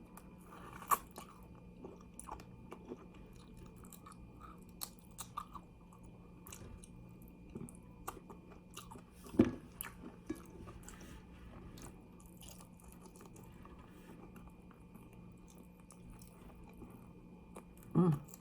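Close-up chewing and crunching of fried chicken wings, bones included: scattered crisp crunches and small clicks, with a louder bite about nine seconds in and another near the end.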